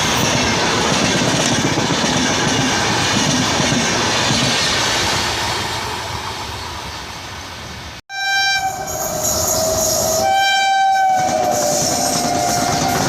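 Indian Railways express train running with a steady rattle that slowly fades. After an abrupt break about eight seconds in, the locomotive's horn sounds twice, and the train noise resumes with a steady tone running on.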